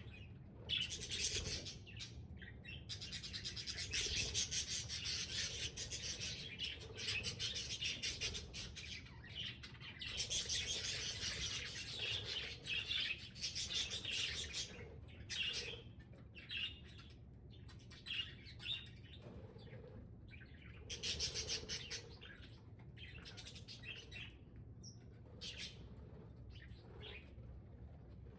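Budgerigars chattering and warbling in stretches of rapid chirping, with quieter gaps between them.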